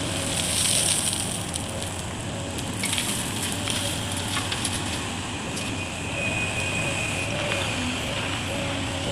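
Excavator at work: steady crackling, crunching noise with scattered clicks and a few short bursts of hiss.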